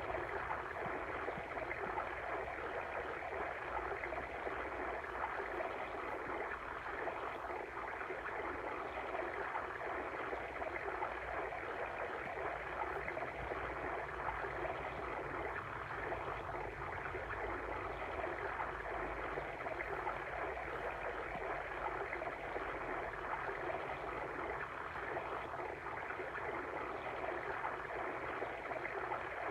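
Flowing water stream, rushing steadily with no break.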